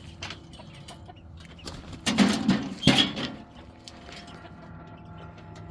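Hens clucking, loudest in a short burst about two to three seconds in.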